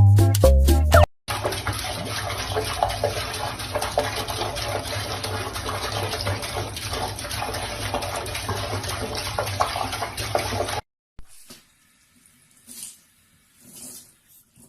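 Steady rush of running water, as from a tap, for about nine seconds, cutting off suddenly; a few faint soft noises follow.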